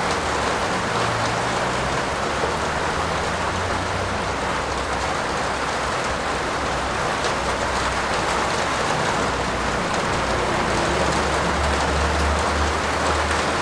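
Steady heavy rain falling on a roof, a dense, even patter.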